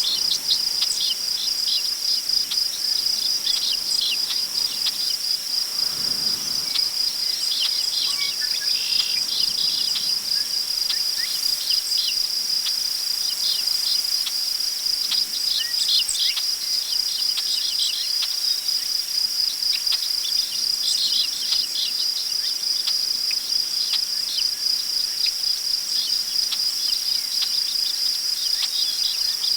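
Crickets trilling steadily in a continuous high, pulsing chorus, with birds chirping in short scattered calls, most of them in the first third and again about two-thirds through, over a faint rustle of wind in tall prairie grass.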